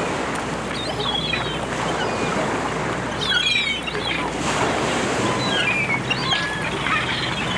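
Sea surf washing steadily while gulls call above it, a few short squawking calls at a time, about four times.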